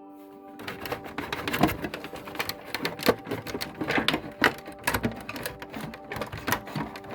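Rapid, irregular clicking and rattling of hand tools and screws on the plastic casing of a coffee machine being taken apart. It starts about half a second in and keeps going.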